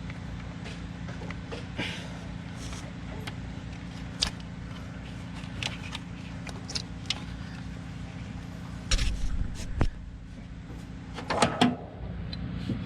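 Hand tools working on the engine bay of a 1985 Chevy S-10: scattered light metal clicks and clinks as bolts and a bracket come off, with a heavier knock about nine seconds in and a cluster of clanks near the end. A steady low hum sits under it all.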